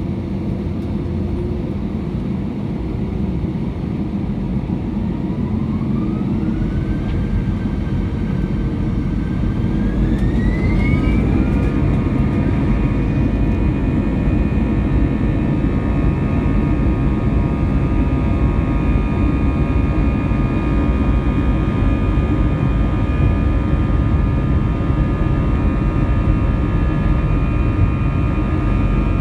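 Airbus A320's jet engines heard from inside the cabin, spooling up to takeoff thrust. A whine climbs in pitch over about six seconds and then holds steady as several tones, over a low rumble that grows as the takeoff roll begins.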